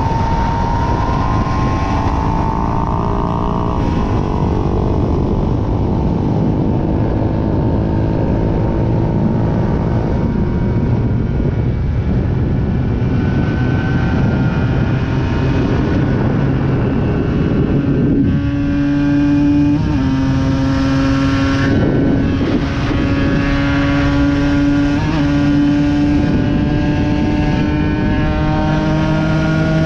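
Aprilia RS 125's single-cylinder two-stroke engine under way, its note climbing in pitch. There is a sudden change of note about two-thirds of the way in and a short break a few seconds later, then a steady, slowly rising tone, over a constant rush of wind.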